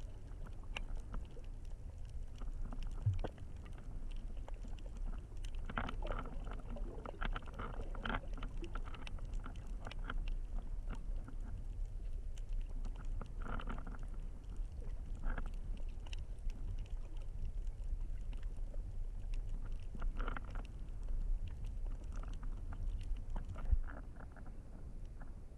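Muffled sound through a GoPro's waterproof housing while snorkeling: a steady low rumble with scattered bouts of muffled sloshing and crackling from water, and one knock near the end.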